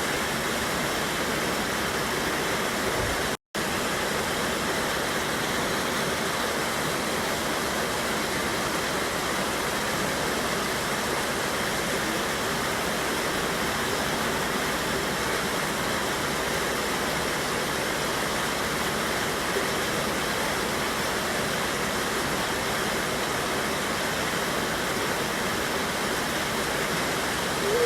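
River waterfall rushing steadily. The sound cuts out for an instant about three and a half seconds in.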